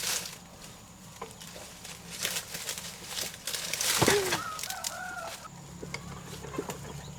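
Chickens clucking, with a louder call about four seconds in, over scattered sharp clicks and knocks and a steady low hum.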